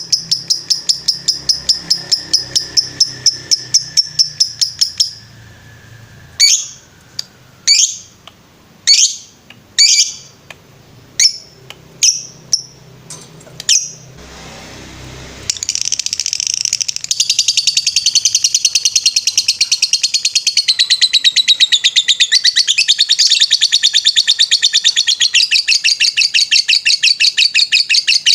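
Recorded lovebird song used as masteran (song-training audio). It opens with a rapid, even pulsing trill. Around five seconds in it changes to single sharp chirps about one a second. From about fifteen seconds in it becomes a fast, unbroken chattering trill, the ngetrek song.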